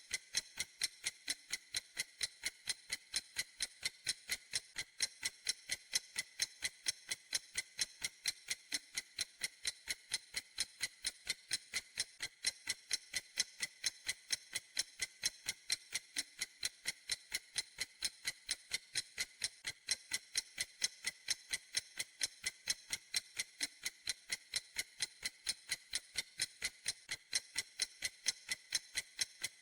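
Clock ticking at a steady, even rhythm: crisp, high-pitched ticks following one another quickly with no change in pace.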